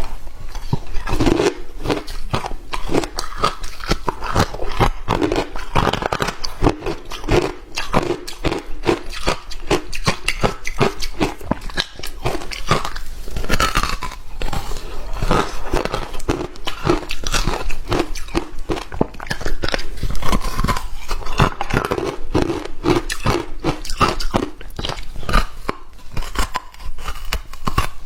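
Close-miked biting and chewing of hard ice: a dense, continuous crunching and crackling with dull chewing thuds in between.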